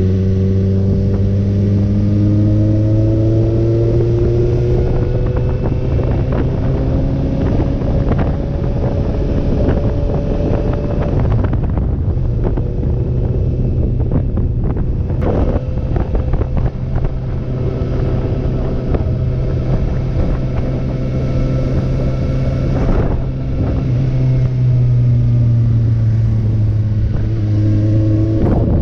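Motorcycle engine running at road speed with wind and road noise; its pitch climbs slowly, eases off around the middle, then climbs again near the end.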